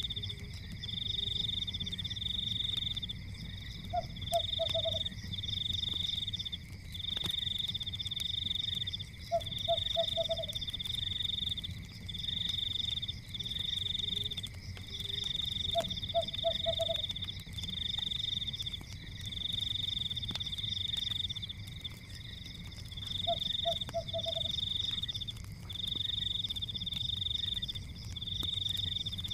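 Night nature ambience mixed with a fireplace. A high trilling chorus repeats in pulses about a second long with short gaps, and a short low croak of three or four quick notes comes every five to six seconds. Underneath are a low rumble and faint scattered crackles.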